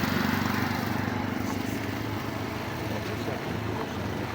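A motor vehicle's engine running with a low, even hum that fades away over the first couple of seconds, leaving steady outdoor traffic noise.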